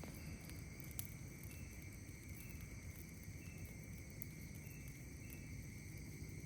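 Night insects calling steadily at several high pitches, one giving a short chirp about once a second, over a low steady noise. A campfire pops sharply about a second in, with a couple of fainter crackles.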